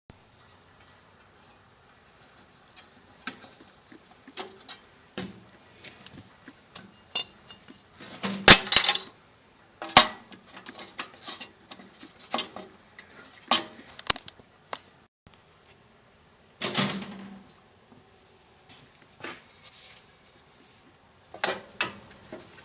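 Irregular clinks and clanks of metal tools and parts being handled, with quiet gaps between them and the loudest clatter about eight seconds in and again about seventeen seconds in.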